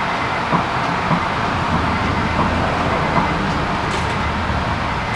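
Honda S2000's four-cylinder engine running on its first start after a rebuild, a steady even noise with a few light clicks. The throttle position sensor is not yet calibrated.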